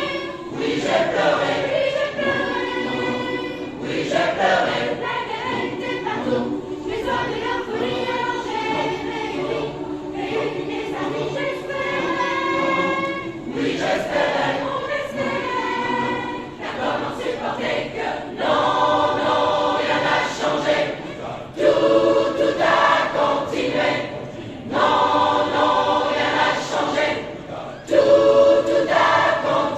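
Choir singing, the sung phrases breaking off briefly every few seconds in the second half.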